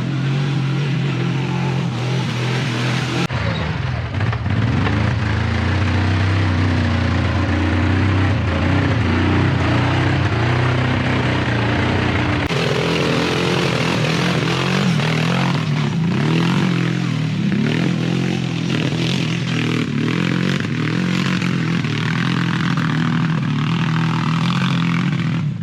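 ATV engine running and revving, its pitch rising and falling as the throttle is worked. The sound changes abruptly about three seconds in and again near the middle.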